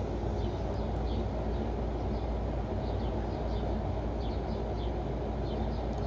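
Small birds chirping in short, falling notes, one or two a second, over steady low background noise.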